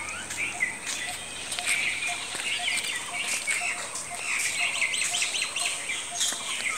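Birds chirping and calling, with many short high chirps overlapping throughout and a lower note repeated two or three times a second.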